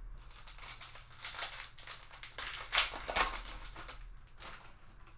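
Foil wrapper of a baseball card pack crinkling as it is torn open and handled, in uneven rustling bursts that are loudest about three seconds in.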